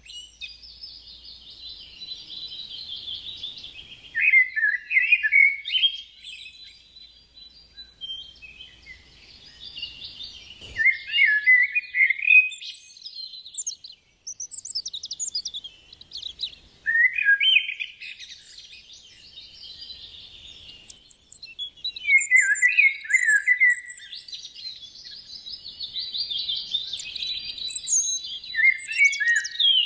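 Songbird singing: fast twittering with louder, tumbling trilled phrases that come back every five or six seconds.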